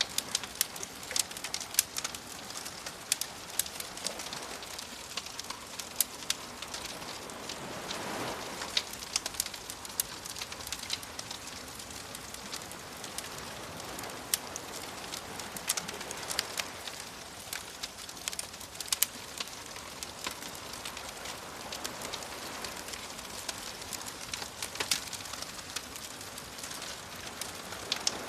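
Campfire crackling with frequent sharp pops and snaps over a soft, steady wash of ocean waves that swells gently now and then.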